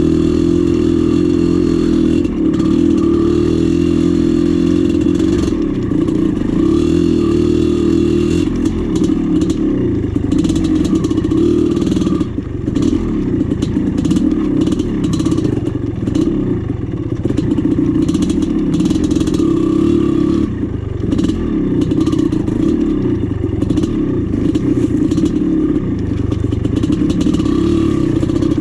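1996 Maico 440's two-stroke single-cylinder engine running hard under changing throttle, easing off briefly a couple of times, with scattered clattering over rough ground.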